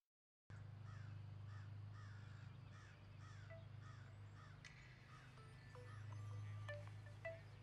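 After half a second of dead silence, a bird calls over and over, two or three calls a second, above a steady low hum. About halfway through the calls stop and short chime-like notes at several pitches begin.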